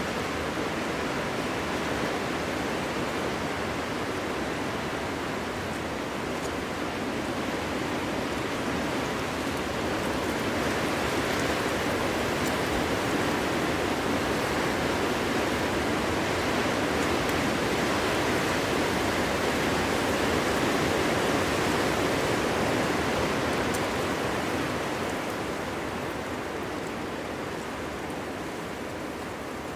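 Winter wind blowing through a forest as a steady rushing noise, swelling louder through the middle and easing off near the end.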